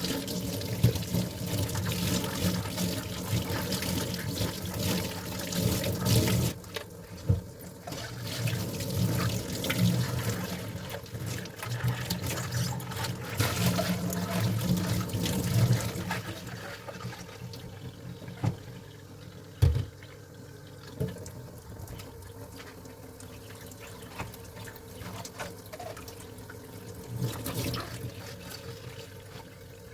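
Dishes being washed by hand at a sink: running and splashing water, heavier for the first six seconds or so, then lighter, with scattered clinks and knocks of dishes and one sharper knock about two-thirds of the way through.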